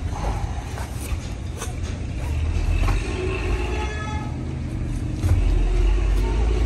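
A steady low motor or engine rumble, louder from about five seconds in, with scattered sharp knocks and clanks over it.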